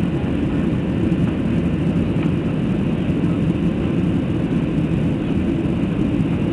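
Aeroplane noise during a takeoff: a loud, steady low rumble that holds even throughout.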